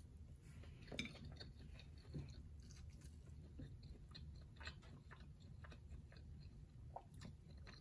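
Faint chewing of a mouthful of omelette breakfast, with scattered small clicks.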